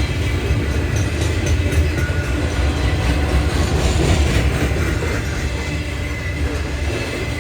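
A freight train passing, with a steady low rumble of wheels on the rails that eases slightly near the end.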